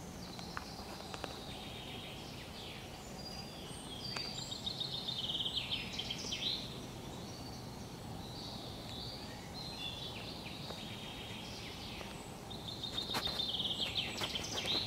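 Small birds singing and chirping over a steady background hiss, with a rapid trill a few seconds in and another near the end.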